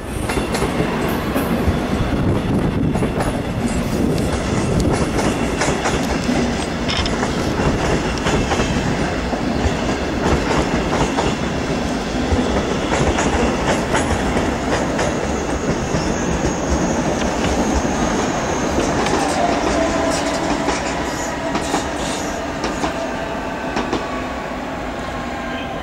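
Red regional trains rolling along neighbouring station tracks: steady wheel-on-rail rumble with repeated clicks over rail joints and points, and a falling whine near the end.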